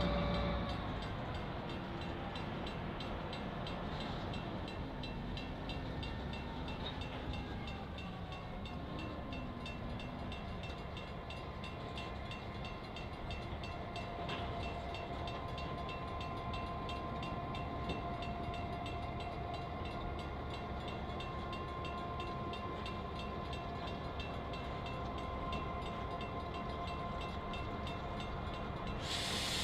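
EMD GP9 diesel locomotive's 567 engine working as the train moves slowly, loudest at first and falling away within about a second. It settles to a steady drone of the engine and rolling freight cars, with a thin steady whine added from about eight seconds in.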